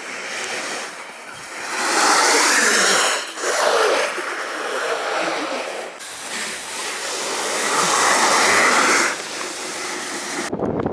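Alpine snowboard carving turns: the board's edges hiss across the slope surface, swelling loud three times and easing between turns.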